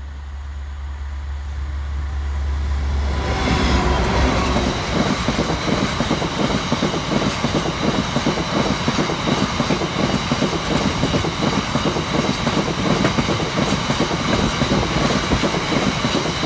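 Diesel freight locomotive approaching with a low engine rumble that swells, then passing close about three and a half seconds in. A long string of box wagons follows, rolling past with rhythmic wheel clatter and a high steady ringing from the wheels and rails.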